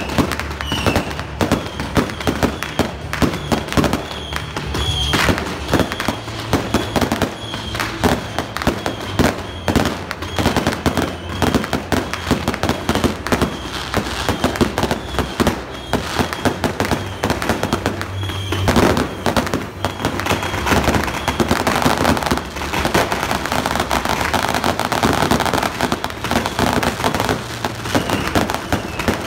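Fireworks display: a fast, unbroken barrage of bangs and pops from shells and rockets bursting overhead, turning to a thicker crackle in the last third.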